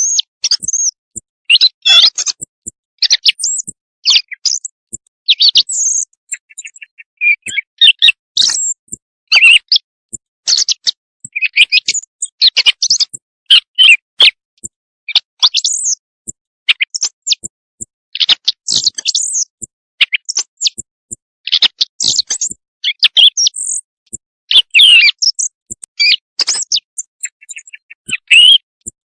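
Quail calls played as a night-time hunting lure: a dense, unbroken run of short, high chirps and trills following one another every second or so.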